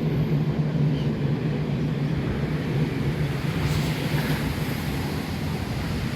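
Steady low rumble of outdoor noise.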